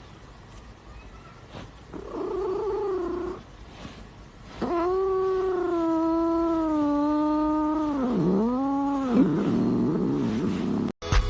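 Cat yowling: a short call about two seconds in, then one long drawn-out yowl of about four seconds that ends in two swooping dips in pitch.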